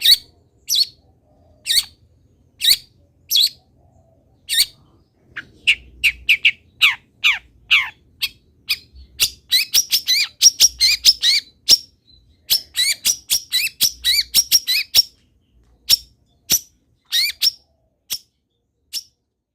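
Long-tailed shrike singing: sharp calls a little under a second apart, then a run of falling whistles, then a fast, dense chattering stretch, slowing back to spaced calls near the end.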